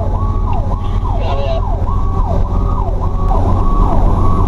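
Emergency siren on a fast yelp, sweeping up and down about twice a second, over the heavy low rumble of the fire truck's engine and road noise.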